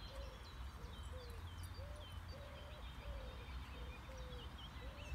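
Birds calling: a run of short, low hooting notes about twice a second, with high chirps and twitters from songbirds above them.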